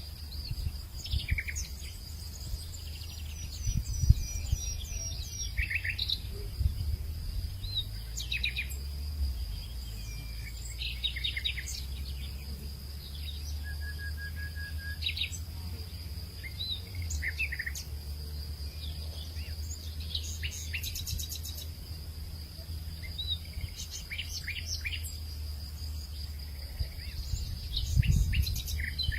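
Several wild birds calling outdoors with short chirps and quick trills scattered through, over a steady high-pitched insect drone. A low rumble runs underneath and swells briefly twice, about four seconds in and near the end.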